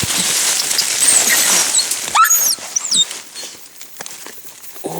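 Jungle ambience: a steady high hiss, as of insects, with a few short high whistled animal calls two to three seconds in, one of them a sharp rising sweep that bends back down.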